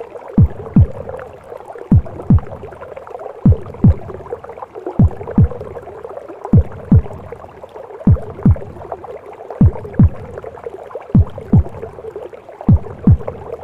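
Heartbeat as heard in the womb: slow lub-dub double thumps, one pair about every second and a half, over a steady whooshing womb noise.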